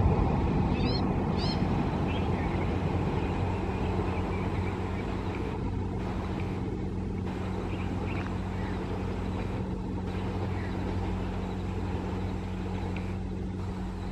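Passenger express train rolling away on the rails, its rumble fading slowly as it recedes, over a steady low hum. A bird chirps a few times about a second in.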